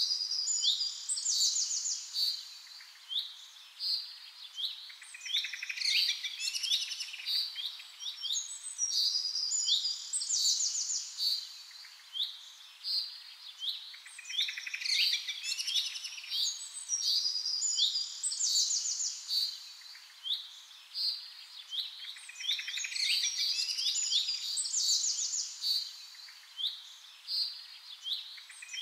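Birds chirping: many short, high calls and trills overlapping without a break.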